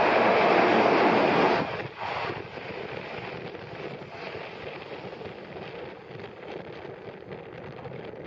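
Sanyo 5000 series electric train running past on the rails. Its loud rush cuts off sharply about two seconds in as the last car clears, leaving a quieter steady rumble while it pulls away.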